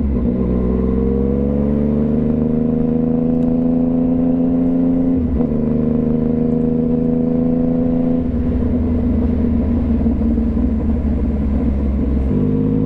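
2015 Yamaha FZ-09's three-cylinder engine running under throttle, its pitch climbing through the revs. There are short breaks about five seconds in, about eight seconds in and near the end, where the gears change.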